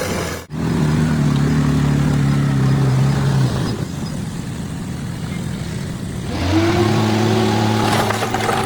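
Bulldozer's diesel engine working, its pitch and load changing: steady and strong at first, easing off in the middle, then rising again about two-thirds of the way through. A clatter of knocks joins it near the end.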